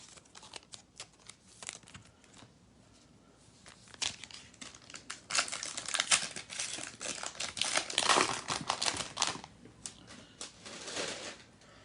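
Trading card pack wrapper crinkling and tearing as the pack is opened by hand. Light handling clicks come first, then from about four seconds in a long stretch of crinkling, and a shorter burst near the end.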